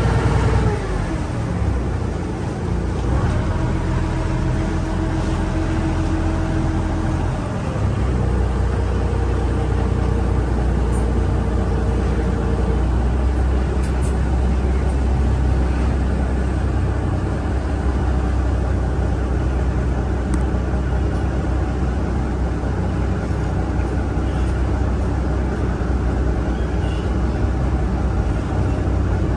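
Ferry boat's engine running with a loud, low drone, heard on board over the noise of the crossing. Its note shifts in the first several seconds, then holds steady.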